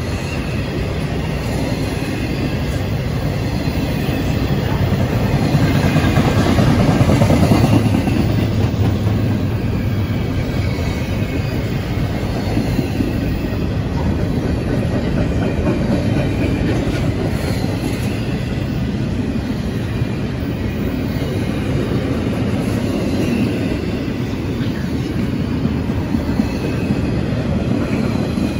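Double-stack intermodal freight train's container well cars rolling past, a steady rumble of steel wheels on rail that swells about six to eight seconds in.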